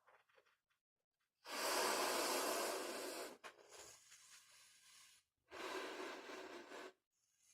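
Breath blown into a balloon-art (modelling) balloon by mouth: two long, steady puffs of air, about a second and a half each, with quieter breathing between them.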